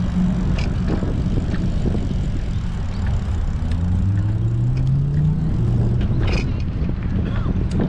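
Wind buffeting an action camera's microphone while cycling, a steady low rumble, with small clicks and rattles from the bike. About halfway through, a low droning tone rises in pitch for a couple of seconds.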